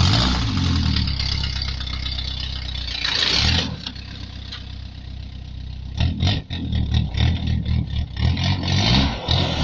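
An engine starts up just before and runs loudly. It is revved up briefly about three seconds in, then blipped rapidly again and again from about six seconds in.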